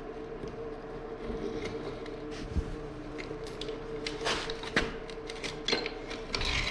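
Scattered metal clicks and knocks of hands and tools working on a dirt bike's rear wheel as the axle is pulled out, with a steady hum underneath.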